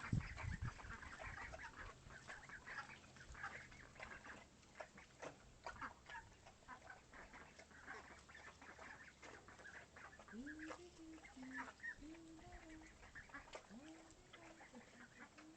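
Ducklings peeping: many short, high chirps throughout, joined in the last third by a few lower, drawn-out calls.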